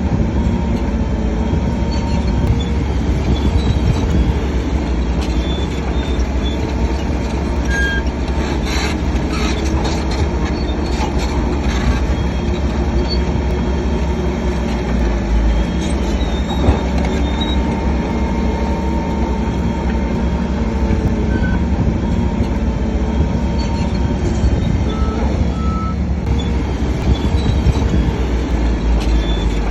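Heavy diesel earthmoving machinery running steadily under load, with scattered short high squeaks and a few clanks, typical of a crawler bulldozer's steel tracks.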